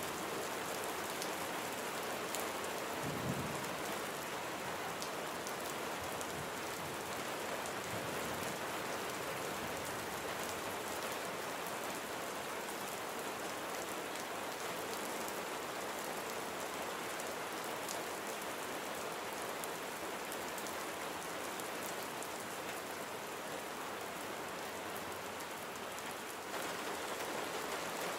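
Steady rain falling and pattering on surfaces, with a brief low thump about three seconds in; the rain gets slightly louder near the end.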